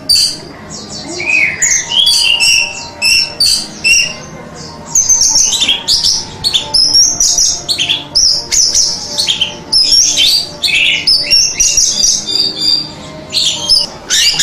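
Orange-headed thrush singing: short repeated high notes at first, then about five seconds in a dense, varied run of chattering and whistled phrases.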